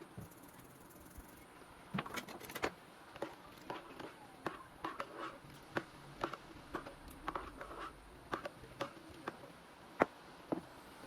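Irregular light clicks and knocks of objects being handled and set down, a few each second, with one sharper knock near the end.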